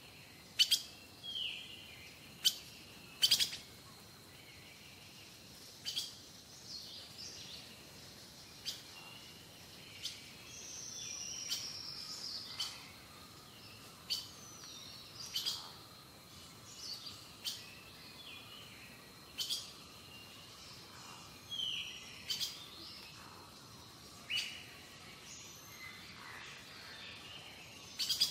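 Small birds chirping and calling, some calls short descending whistles, with sharp clicks every one to three seconds.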